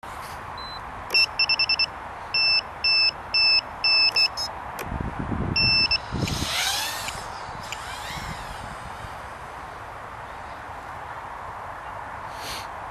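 Mini active piezo buzzer on a Tinyhawk 2 Freestyle micro drone beeping in a steady high tone: four quick beeps, then a string of longer beeps. After them come a few low thumps and some gliding chirps, then a steady hiss.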